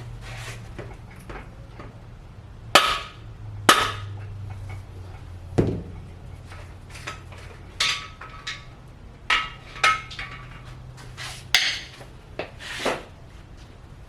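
Hammer tapping on a cam bearing installer tool, about nine irregular metallic strikes that each ring briefly, nudging a cam bearing in a Ford 292 Y-block into position so its oil hole lines up. A low steady hum runs underneath.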